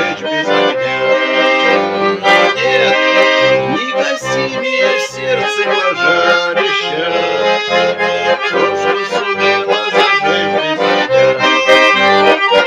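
Accordion playing an instrumental passage: a melody over a regular, pulsing bass-and-chord accompaniment.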